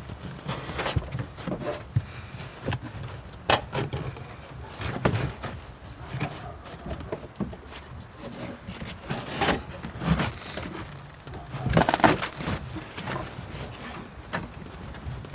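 Floor carpet being pulled out of a car interior: irregular rustling and scraping with scattered knocks and thuds, the loudest about three and a half, nine and a half and twelve seconds in.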